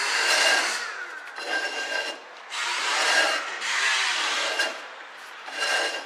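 A 1967 Chevrolet Camaro's brake drum turned by hand against adjusted shoes, giving a rough scraping rub in about five strokes, each under a second, with a faint squeal in some. The owner puts the scrape down to the drum being a little rusty.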